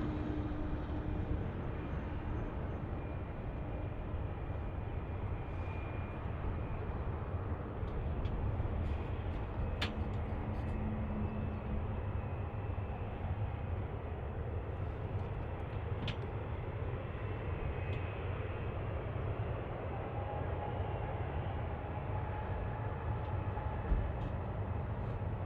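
Steady low rumble of distant engine noise, with a louder passing sound fading out at the start.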